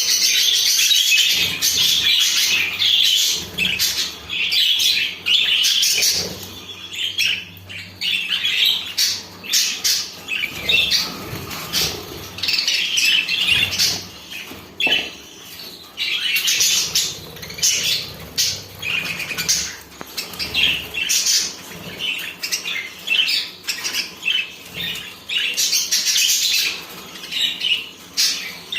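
A flock of small birds chirping and squawking together in a dense, continuous chatter, with frequent short flutters of wings.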